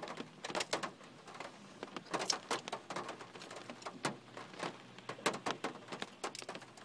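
Close-up chewing of a hard bagel: irregular wet mouth clicks and crunches.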